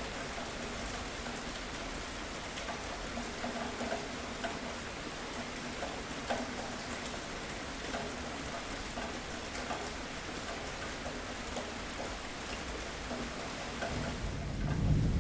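Steady rain falling, with many separate drops hitting a surface. Near the end a low rumble of thunder begins to build.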